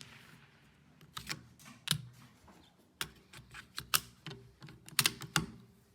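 A string of light, sharp mechanical clicks and knocks, about a dozen, uneven in spacing, from handling a bolt-action .22 rifle at the bench between shots.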